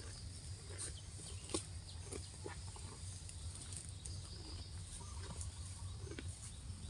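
Cow grazing: irregular crisp snaps of grass being torn and chewed, over a steady low rumble.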